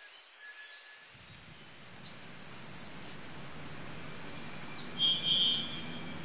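Birds chirping over a steady outdoor hiss: a short high call near the start, a quick run of falling notes about two seconds in, and a brief trill near the end.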